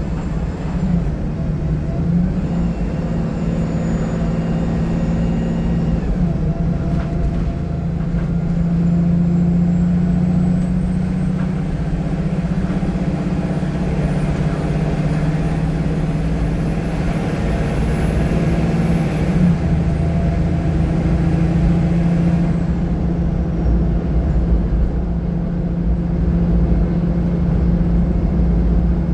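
VDL SB200 single-deck bus under way, heard from inside the cabin: a steady engine drone with a strange exhaust sound, like air being trapped and released through the gaps between the back-row seats. For a few seconds past the middle the sound turns brighter and louder, then settles back.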